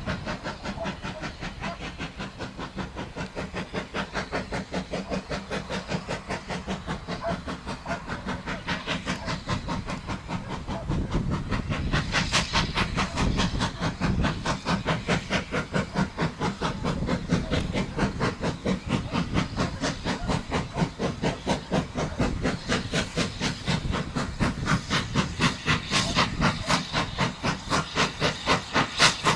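Steam locomotive working a train, its exhaust beating in a fast, regular chuff with steam hiss. The beats grow louder about twelve seconds in.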